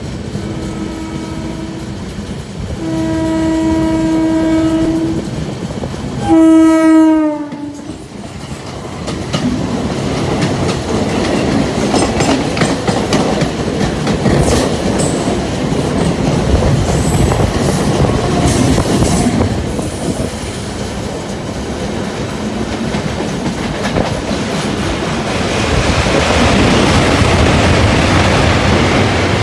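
A train horn sounds three times: a short blast, a long one, then the loudest blast, which drops in pitch. Then the steady rush and clickety-clack of train wheels on rail joints as a train in the other direction runs past alongside. The running noise gets louder near the end as the train runs onto a steel truss bridge.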